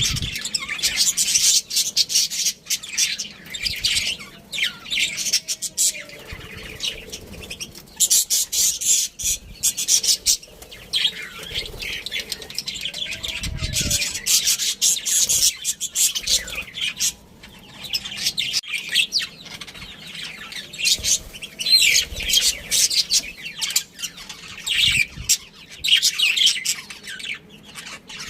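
A flock of budgerigars chirping and chattering in quick, high-pitched bouts that come and go every few seconds.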